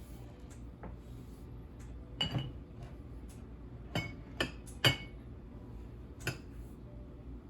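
Dishes and glassware clinking and knocking as they are handled: about five separate clinks over several seconds, some with a short ring.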